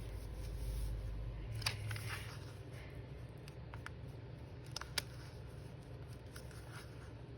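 Quiet handling of paper on a tabletop, soft rustles with a few small sharp clicks, one about two seconds in and two close together near the middle.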